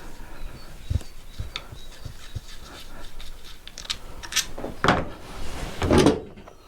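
Short clicks and knocks of small metal parts and tools being handled while an engine's side cover is being unscrewed and taken apart, with a few louder knocks a little after halfway.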